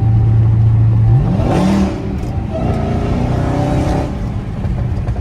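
Car engine holding a steady low drone, then revving up with a rising pitch about a second and a half in as the car accelerates, and carrying on under load.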